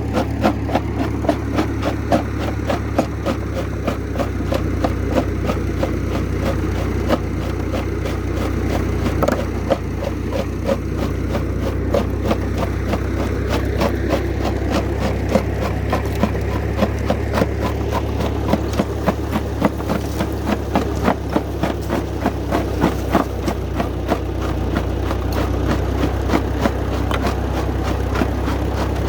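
Old tractor engine running steadily, driving a belt-powered rock crusher. Sharp, irregular knocks and cracks come several times a second as the crusher breaks up lava rock.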